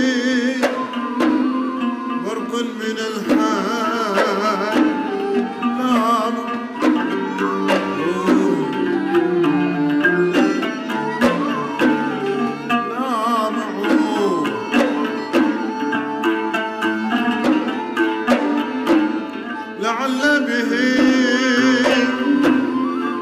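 Bahraini sawt music played by a traditional ensemble: plucked strings and hand-drum strokes under a wavering melodic line.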